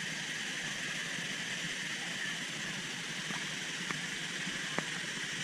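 Steady rushing of a waterfall's cascading water, with a few faint clicks about three to five seconds in.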